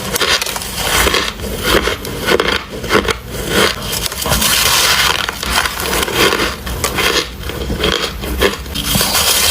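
Freezer frost and white ice being bitten and chewed, heard close up: a dense run of crisp crunches, several a second.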